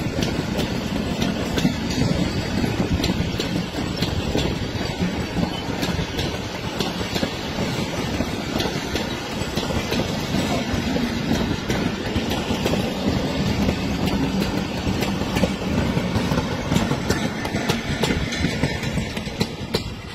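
Passenger coaches of a departing train rolling past on the track: a steady rumble of wheels on rail with a quick, irregular clickety-clack of clicks over the rail joints. It eases off slightly near the end as the last coaches move away.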